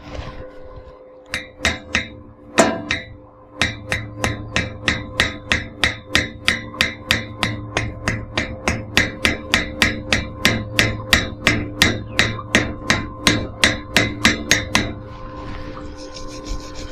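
Hammer striking metal: a few scattered blows, then a quick, even run of about three blows a second that stops near the end. This is typical of a chipping hammer knocking slag off a stick-welded bead. A steady low hum runs underneath.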